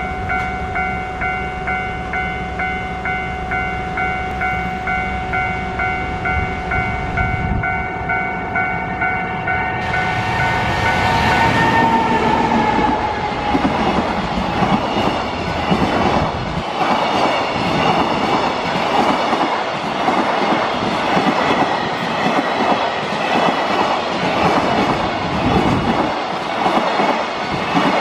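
JR Freight EF210 electric locomotive approaches and passes close by, with a falling tone as it goes past about ten to twelve seconds in. It is followed by a long string of container wagons whose wheels clatter rhythmically over the rail joints. Through the first ten seconds a pulsing warning tone repeats steadily as the train draws near.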